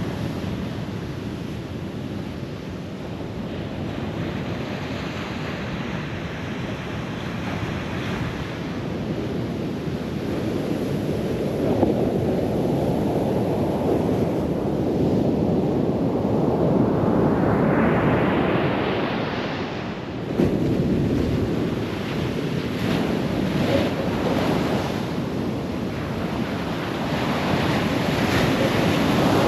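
Atlantic surf washing onto a sandy beach, with wind buffeting the microphone. The wash swells louder and brighter past the middle of the stretch.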